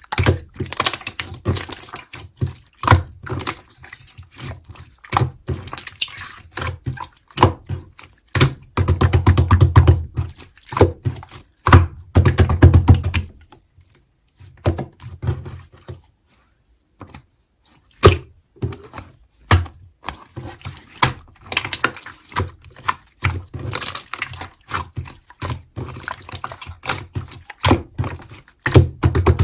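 Clear slime squished and poked by hand: a steady stream of wet clicks and small pops, thickest about a third of the way in, with a pause of a few seconds near the middle.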